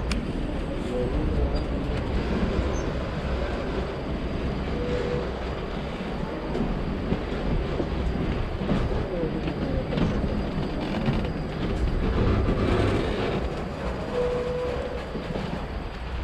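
Lehigh Gorge scenic excursion train running along the track, heard from on board as a steady rumble and rattle of the rail cars.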